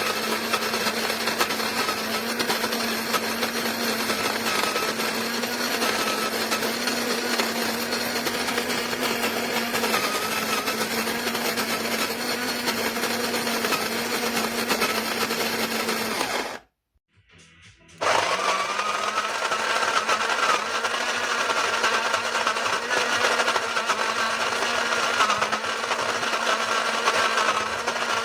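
Melitta Molino electric coffee grinder, with a flat grinding disc, running steadily as it grinds beans. It cuts out about 17 seconds in and starts up again a second later, the motor pitch rising briefly as it spins back up.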